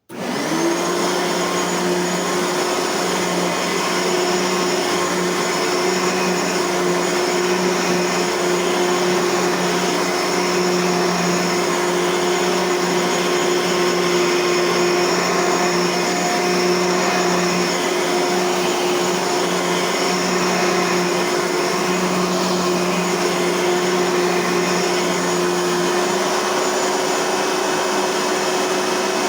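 Bissell vacuum cleaner switched on: the motor spins up to a high whine within a second and runs steadily over a rushing air noise. It begins to wind down at the very end.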